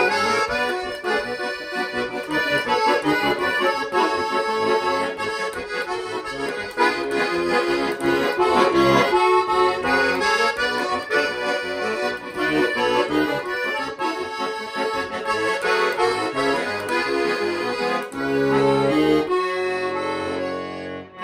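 Bayan (Russian button accordion) playing a lively instrumental passage, with a fast right-hand melody over left-hand bass and chords. About eighteen seconds in it settles into long held closing chords.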